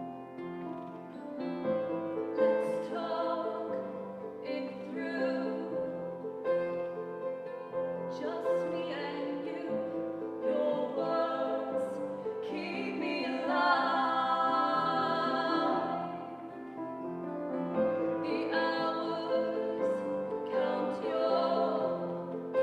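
Live song performance: female singing over instrumental accompaniment, with a long held, wavering sung note a little past the middle.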